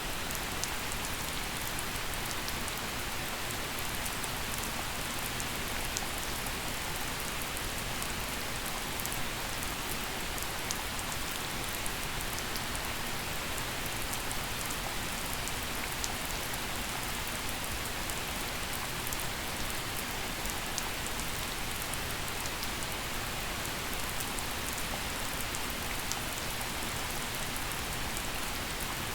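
Gentle, steady rain falling, with individual drops ticking sharply over the even hiss of the downpour.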